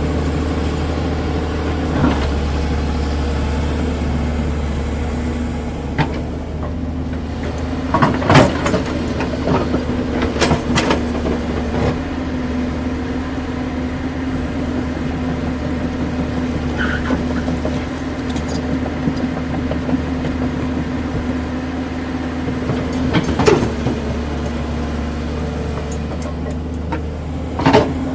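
Excavator's diesel engine running steadily, with a few sharp knocks and clanks standing out above it.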